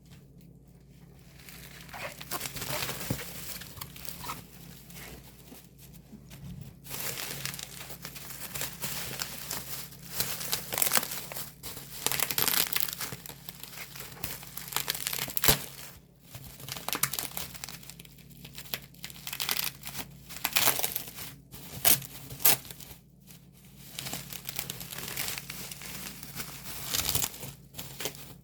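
Plastic shrink wrap on a music album crinkling and tearing as it is pulled off by hand, in irregular bursts of crackling.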